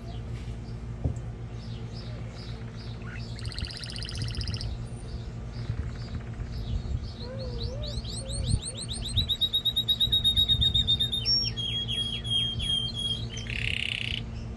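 Male domestic canary singing in varied phrases: a buzzy roll, then a fast run of repeated sweeping notes, then steady trilled notes and a short buzzy roll near the end. A steady low hum runs underneath.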